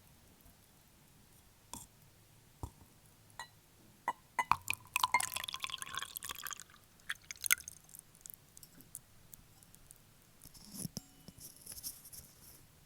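Fake fingernails tapping on an object: a few separate taps, then a quick flurry of clicking taps with a short ringing tone, and later another softer run of taps.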